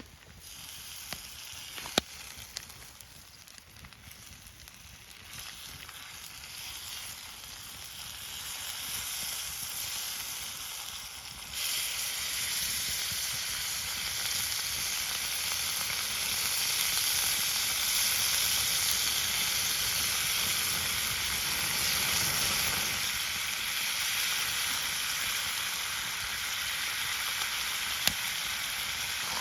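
Food sizzling as it fries in a pan. The sizzle builds gradually, jumps suddenly louder about twelve seconds in, then holds steady, with a couple of sharp clicks.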